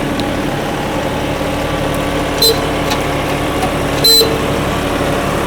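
Tractor engine running steadily at low revs, with two short sharp clicks or squeaks about two and a half and four seconds in.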